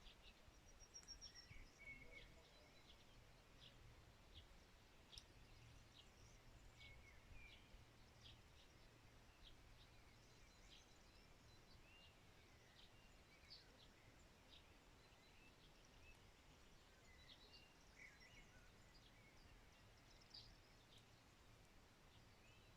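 Faint outdoor birdsong: scattered short high chirps and a few brief sliding calls from several birds, over a low steady hum.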